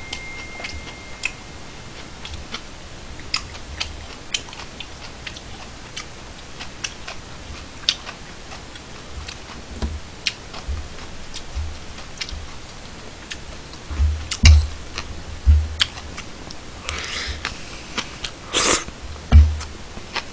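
Close-miked chewing of kimchi fried rice, with many small wet mouth clicks, a few dull knocks against the table late on, and one louder short noise near the end.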